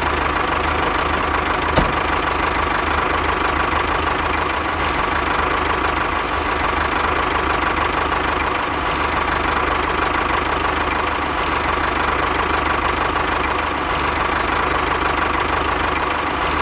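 A small engine running steadily at a constant speed, with one brief click about two seconds in.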